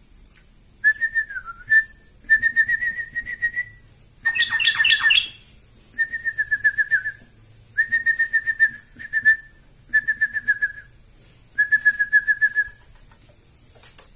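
Yellow-vented bulbul (trucukan) singing in about eight short bursts of rapid, evenly repeated whistled notes on nearly one pitch, each burst about a second long. The burst about four seconds in is the loudest and fullest.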